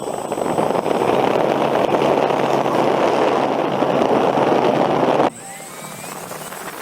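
E-flite Night Radian's electric motor and propeller run at high throttle: a loud, steady rushing drone that gets louder about a second in and cuts off abruptly about five seconds in.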